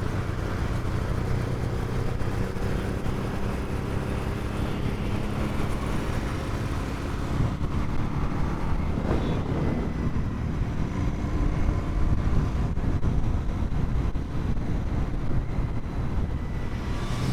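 Royal Enfield Continental GT 650's parallel-twin engine running under way, heard from the rider's helmet mic, with wind and road noise. The engine note is clear at first, then mostly covered by a steady rush of wind and traffic.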